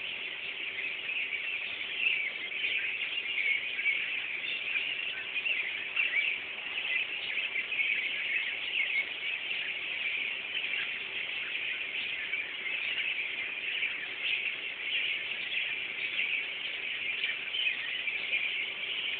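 A large flock of birds chirping all at once: a dense, continuous, overlapping chatter of many high calls, really loud.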